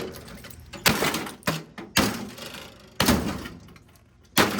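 Four heavy blows about a second apart on a Hamilton Beach microwave oven as it is smashed, each a sharp bang that dies away quickly.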